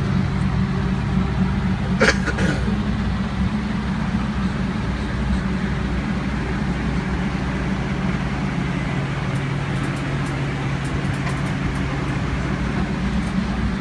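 Steady engine drone with an even low hum, as from an idling vehicle or machine engine, with a sharp click about two seconds in.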